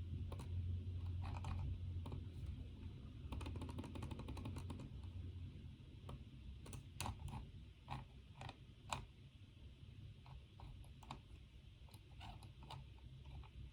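Typing on a computer keyboard: a quick run of keystrokes a few seconds in, then scattered single key clicks. A low steady hum runs underneath, stronger in the first few seconds.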